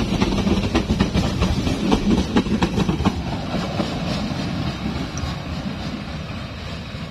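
Passenger train's wheels clattering over the rail joints as the last coach pulls away, with sharp clicks over a low rumble in the first few seconds. The clatter and rumble then fade steadily as the train recedes.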